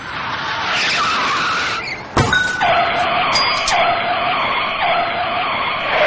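Car tyres skidding, then a sharp impact about two seconds in, followed by a steady noisy rush with a sweep that repeats about once a second.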